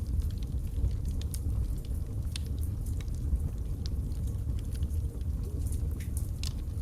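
Wood logs burning in a fireplace: a low, steady rumble of the flames with scattered, irregular sharp crackles and pops.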